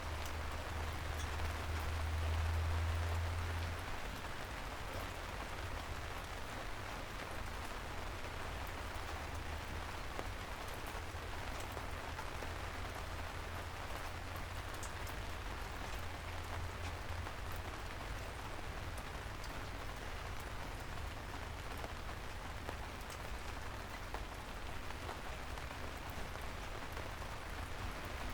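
Steady, soft rain falling on city streets, an even hiss of drops. A low rumble runs underneath; it is loudest in the first few seconds, then settles.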